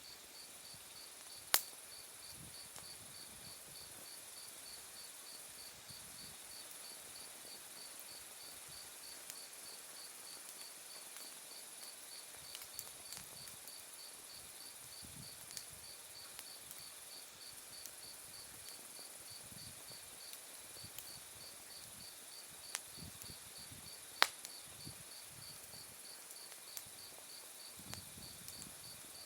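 Autumn night insects singing steadily, one with a high chirp pulsing about three times a second over a higher continuous trill. Over them, an ember-bed wood fire gives faint crackles and two sharp pops of burning firewood, one shortly after the start and one about four-fifths of the way through.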